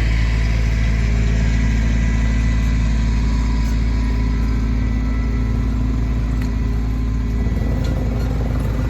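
An engine idling steadily, with a slight change in its note near the end.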